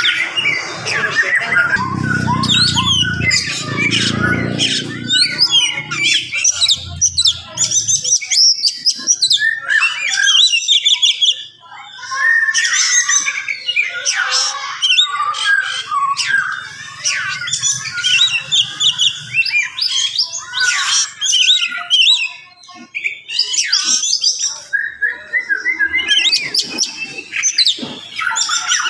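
Oriental magpie-robin (kacer) singing a fast, dense, continuous song of varied whistles, chirps and harsh notes, briefly pausing about twelve seconds in and again a little after twenty seconds.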